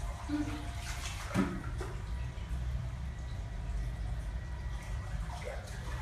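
Pool water sloshing and lapping as a cat paddles, with a couple of small splashes about a second in, over a steady low hum.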